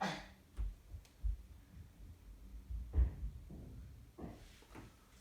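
Small RC truck drivetrain parts being handled on a workbench: a few soft, low thumps and light clicks, with a brief rustle near the end.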